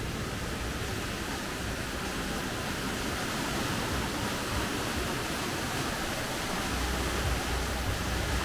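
Steady rain falling, an even hiss, with a low rumble that swells near the start and again toward the end.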